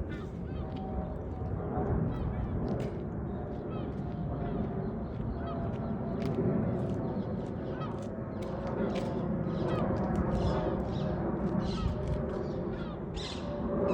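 Small birds chirping and calling repeatedly over a steady low rumble of background noise.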